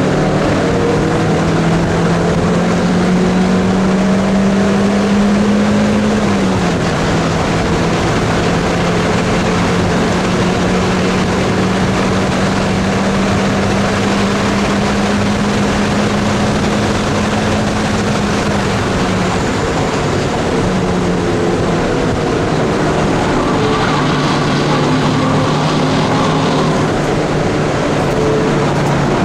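1995 Dodge Neon ACR's four-cylinder engine at full throttle, heard from inside the cabin over a steady rush of road and wind noise. It pulls up in third, drops in pitch with a quick upshift to fourth about six seconds in, and climbs again. It comes off the throttle about two-thirds of the way through, then settles into a lower, steadier note in third near the end.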